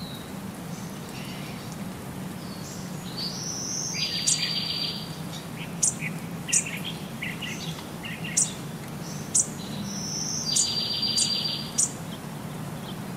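Small birds chirping: sharp, high single chirps and a short buzzy trill. The same run of calls comes round again about six seconds later, over a steady low hum.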